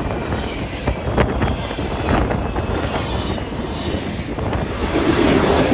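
Freight cars of a passing train rolling by close at hand: a steady rumble of steel wheels on the rails, broken by sharp clicks and clanks at irregular intervals as the wheels cross rail joints. Wind buffets the microphone in the draft of the passing cars.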